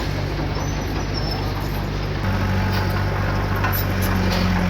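Diesel engine of heavy earthmoving equipment running steadily, stepping up in loudness and pitch about two seconds in as it revs or takes load.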